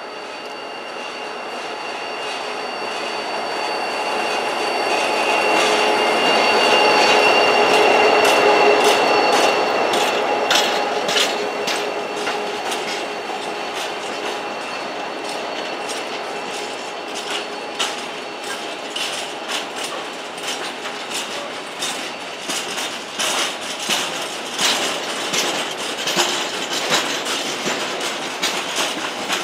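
A diesel freight train passing: the locomotive's engine draws near and is loudest about eight seconds in, then the wagons of an empty timber train follow with a steady clickety-clack of wheels over rail joints.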